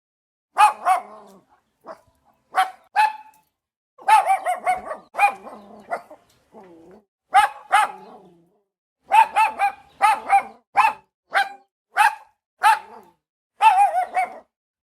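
A dog barking repeatedly in short, sharp, high barks, often two or three in quick succession.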